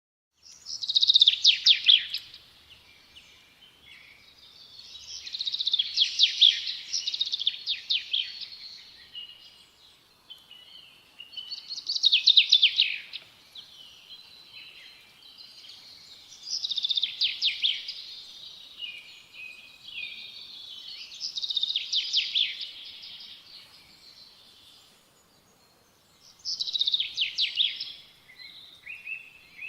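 A songbird singing, repeating a loud phrase of rapid high notes six times, about every four to five seconds, with quieter chirps between the phrases.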